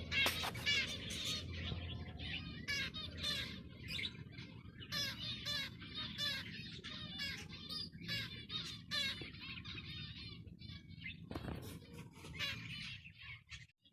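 Zebra finches chirping and calling, many short high calls in quick succession.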